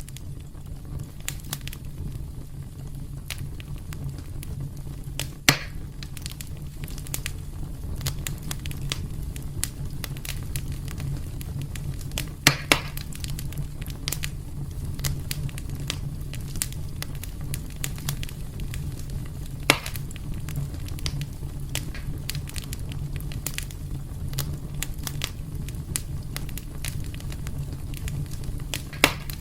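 Wood fire burning in a fireplace: a steady low rumble with frequent small crackles and snaps, and a few louder pops, about five seconds in, twice in quick succession near the middle, once about two-thirds through and once near the end.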